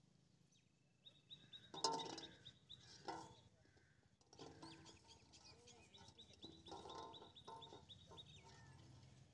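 Faint bird calls in two spells, one about two seconds in and one from about four and a half to eight seconds, a high trilling note over lower clucking calls.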